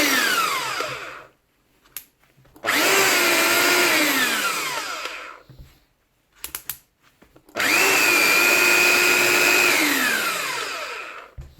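Hilti TE 40 AVR rotary hammer running with no load in short trigger pulls: a steady motor whine that spins down with falling pitch when released. It winds down about a second in, starts again for about three seconds, and does so once more near the end, with a few short clicks in the gaps between runs.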